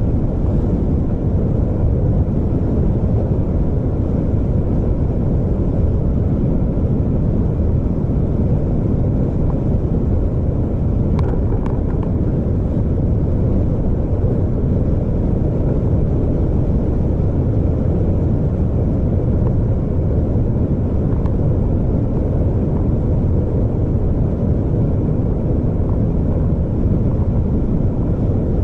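Steady low rumble of a vehicle on the move, engine and road noise. A few faint clicks come about eleven seconds in.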